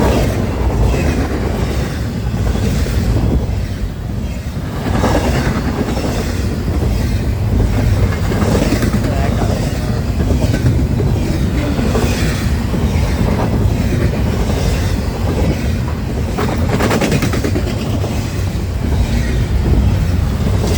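Freight train cars rolling past close by: a heavy continuous rumble with the clickety-clack of wheels over rail joints.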